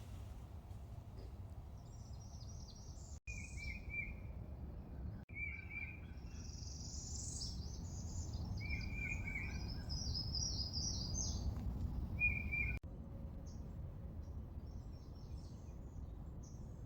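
Birds calling and singing in the swamp: short repeated chirping phrases, some lower and some very high, scattered throughout over a steady low background rumble.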